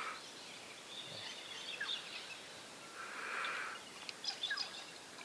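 Faint riverside ambience with a few short bird chirps, and a soft swish of water about three seconds in as a fish is eased out of hands in the shallows.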